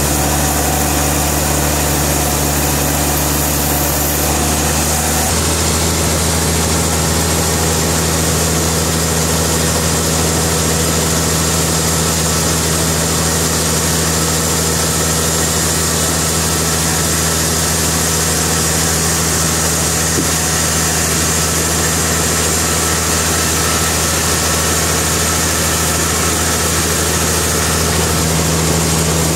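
Sawmill engine running steadily under a constant drone, its note shifting slightly about five seconds in.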